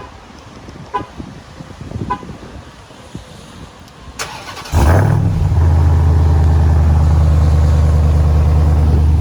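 Three short beeps about a second apart, then the 2021 Ram TRX's 6.2-litre supercharged V8 cranks and fires on a cold start about four and a half seconds in, flaring up briefly and settling into a loud, steady high idle.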